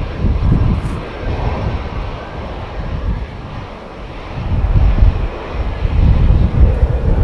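Airbus A320's jet engines at take-off power: a loud, rumbling jet noise that eases a little about halfway through and builds again.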